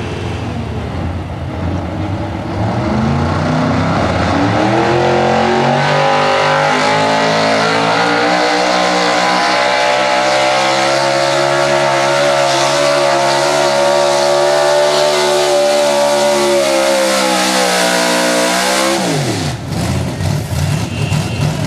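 Modified 4x4 pickup truck's engine at full throttle pulling a weight-transfer sled: the revs climb over the first few seconds, hold high and steady for about fourteen seconds, then fall away sharply near the end as the throttle is let off.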